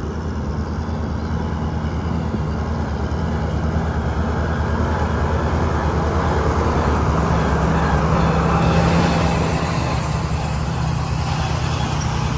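Motor vehicle engine running steadily, with a rushing noise that swells toward the middle and the overall sound slowly growing louder.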